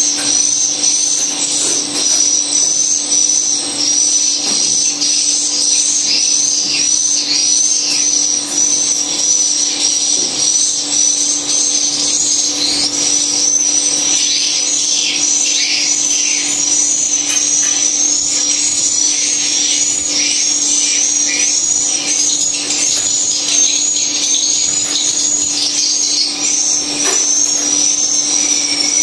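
Continuous high-pitched twittering of swiftlets, in dense overlapping chirps, over a steady low hum.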